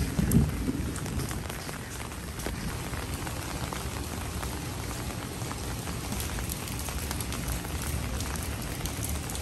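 Steady rain falling, with scattered ticks of drops striking a surface. There is a brief low bump just after the start.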